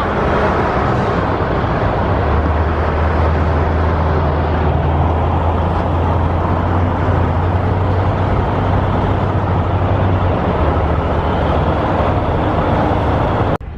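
A car on the move: steady road and engine noise with a low drone that sets in about two seconds in and eases off near ten seconds, then cuts off abruptly just before the end.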